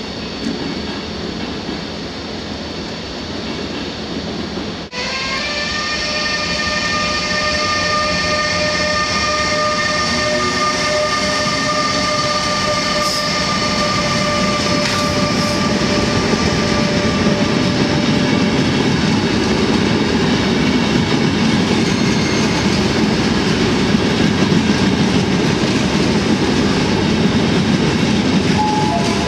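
ÖBB class 1116 Taurus electric locomotive passing close by, its traction equipment giving a steady high whine from about five seconds in that fades away after some fifteen seconds. Then comes the rolling rumble and rattle of the passenger coaches running past on the rails.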